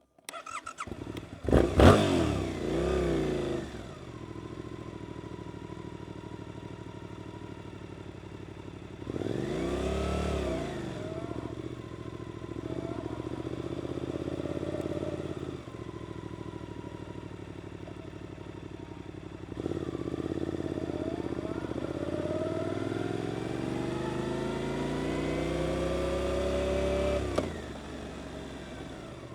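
Suzuki GSX-8S parallel-twin with an Arrows aftermarket exhaust. About two seconds in it comes in with a loud flare and settles to a lower, steady running note. It revs up and down about ten seconds in and again briefly around thirteen. From about twenty seconds it pulls with a long rising note, and the throttle is shut abruptly about twenty-seven seconds in.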